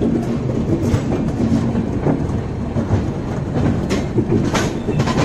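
Express train rolling along the track with a steady rumble, its wheels giving several irregular clacks over rail joints.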